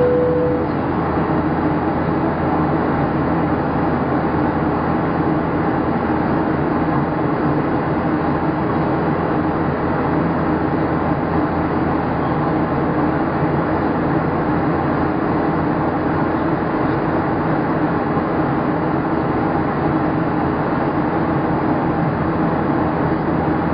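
Steady cabin noise of a Boeing 737-700 in flight: its two CFM56-7 turbofan engines and the airflow over the fuselage, an even rush with faint steady engine tones in it. A cabin chime tone ends about half a second in.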